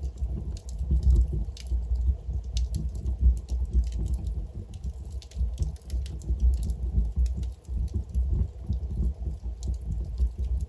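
Wood fire burning in a fireplace: a low, steady rumble of flames under frequent, irregular crackles and pops from the burning logs.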